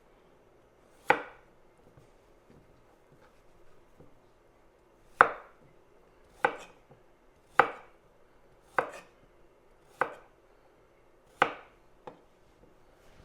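Chef's knife slicing through carrots and striking the cutting board: single sharp chops, one about a second in, then after a pause a run of roughly one chop a second, cutting half-inch diagonal pieces.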